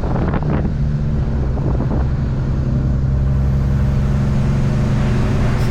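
Semi truck's diesel engine running with a steady drone, heard from inside the cab along with road noise. There are a few brief rattles in the first two seconds.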